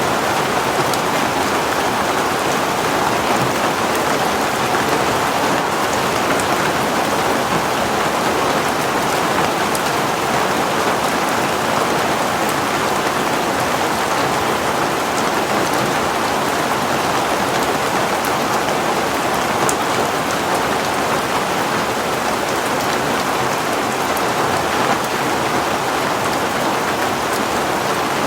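Heavy rain falling steadily, a dense even rush with no let-up.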